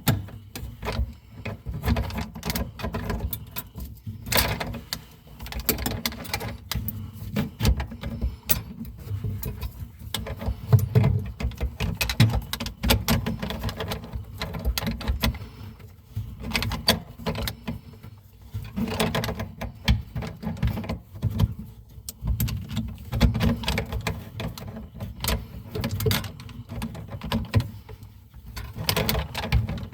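Irregular clicks, knocks and rattles of hand tools and fittings being handled and worked, over a low rumble of handling noise.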